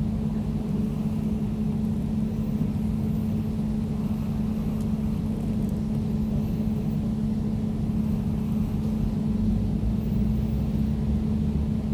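Air conditioner running steadily: a constant low hum under a soft, even rush of air.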